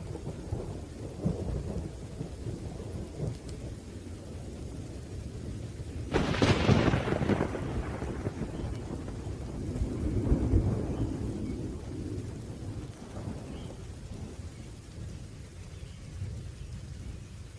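Thunderstorm with rain: steady rain under rolling thunder. A sharp, loud thunderclap comes about six seconds in and rumbles away over a couple of seconds, then another low roll of thunder swells around ten seconds.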